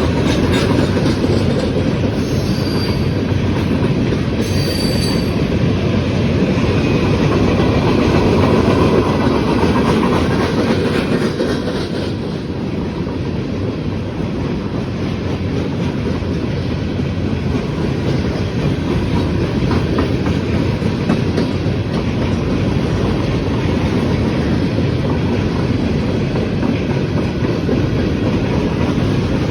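Freight cars of a manifest train rolling past, a steady rumble of steel wheels with clickety-clack over the rail joints. Two brief high-pitched wheel squeals come in the first five seconds.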